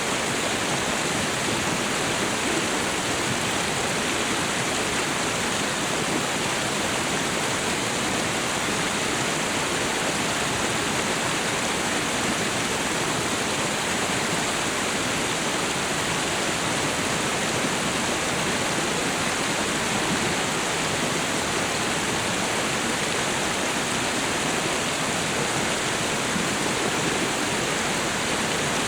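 Waterfall and river water rushing in a steady, even roar without change.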